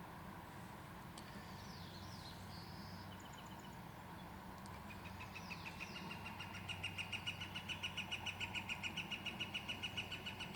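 Northern flicker giving its long call: a run of evenly repeated 'wick' notes, about six or seven a second, starting about five seconds in and growing louder. A few short, high chirps come before it.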